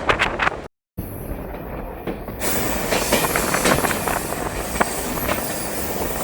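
A train running along the rails, a steady rushing noise with frequent short clacks and squeaks from the wheels. The sound cuts out completely for a moment just under a second in.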